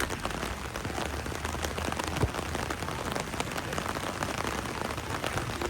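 Rain pattering steadily on a surface close to the microphone, many small drop ticks, with one dull thump about two seconds in.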